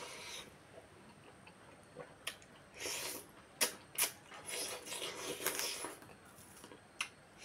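A person eating rice and chicken curry by hand: close-up wet chewing and lip-smacking, with a few sharp smacks or clicks from the mouth in the middle.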